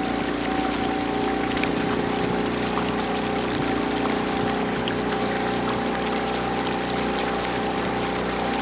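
Coaching launch's outboard motor running at a steady speed, with water rushing past the hull.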